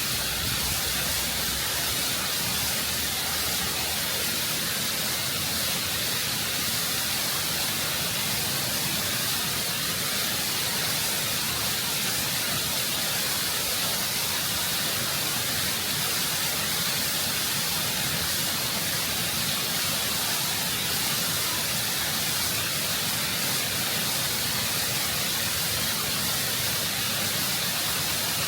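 Waterfall rushing over rock at close range: a constant, full hiss of falling water and spray, heaviest in the high frequencies.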